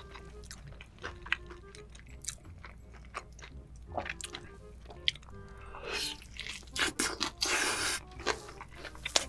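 Close-miked chewing and crunching of crispy fried chicken coated in spicy sauce and melted cheese, with the loudest crunchy bites about six to eight seconds in. Faint background music underneath.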